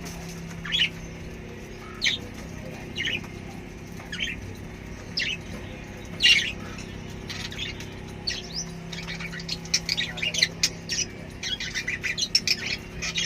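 Pet lovebirds giving sharp, high squawking chirps: single calls about once a second at first, turning to rapid back-and-forth chatter from about two-thirds in. A faint steady low hum runs underneath.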